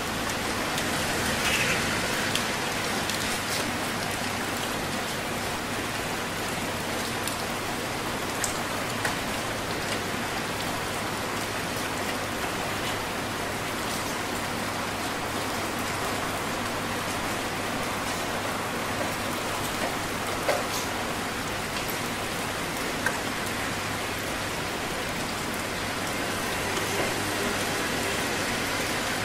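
Steady heavy rain falling, an even hiss with a few sharper individual drop hits scattered through.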